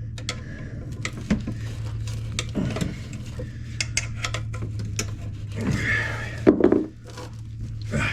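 Loose metal parts clinking and clattering as they are handled and sorted, with a louder clatter about six and a half seconds in, over a steady low hum.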